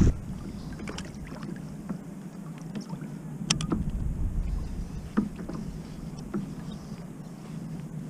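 Water lapping against a kayak's hull under a low rumble of wind, with scattered light clicks and taps.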